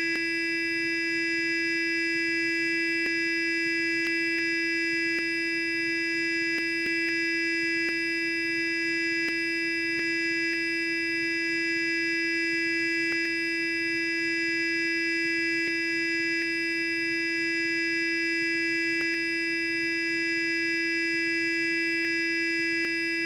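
Sonic electric toothbrush running continuously: a steady buzzing hum, with a few faint ticks now and then.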